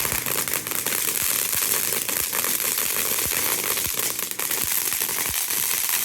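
A lit firework burning, with a steady hiss and rapid, irregular crackling pops.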